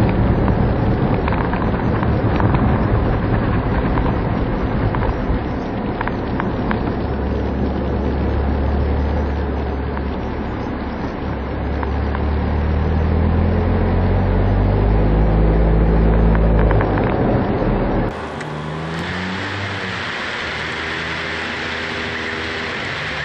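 Car on the road heard from inside through a dashboard camera: steady engine and road rumble, with the engine note climbing as it speeds up about two-thirds of the way through. About three-quarters in, the sound changes abruptly to a quieter, clearer engine hum.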